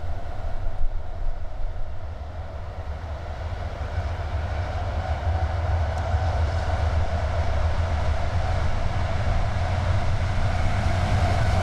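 Diesel-electric freight locomotives approaching with a low, steady engine rumble that grows louder as the train draws near.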